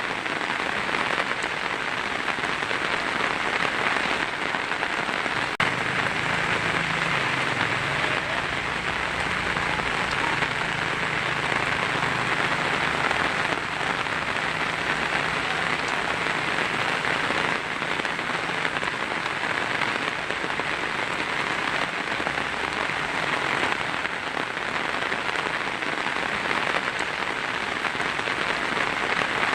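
Heavy rain falling steadily on a tin roof, a dense, even hiss. A faint low rumble sits underneath for a stretch in the middle.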